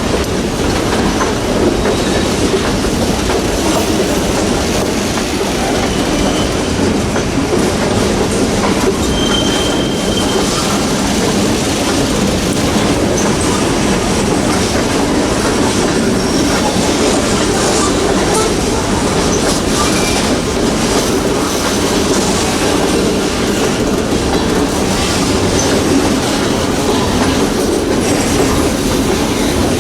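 Freight train's cars rolling past at steady speed, a continuous rumble of wheels on rail, with a few brief high wheel squeals now and then.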